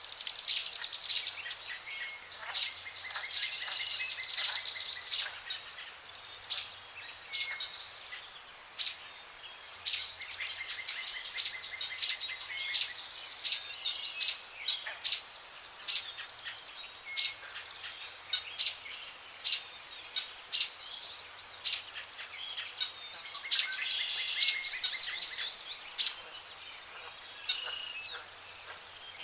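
Songbirds singing and calling together: several rapid trilled and warbling song phrases, with frequent short, sharp high chirps between them.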